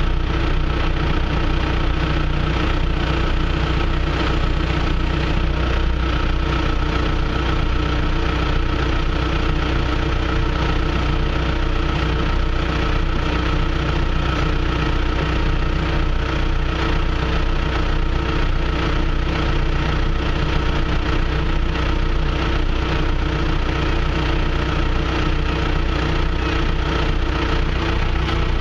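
John Deere 650J crawler dozer's diesel engine idling steadily.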